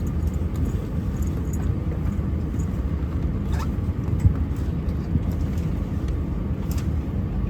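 Steady low rumble of an Airbus A320 cabin at the gate before pushback, the hum of the air-conditioning, with a few faint clicks and knocks.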